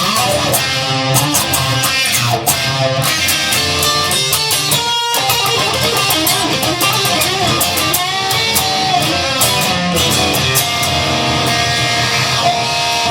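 Instrumental rock section: layered electric guitars, Fender Stratocasters and a Telecaster, play over bass and a steady drum beat.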